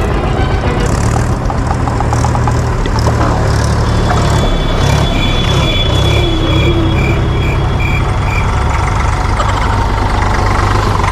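Toy vehicle motors running steadily with a low hum. A run of short, high beeps sounds in the middle.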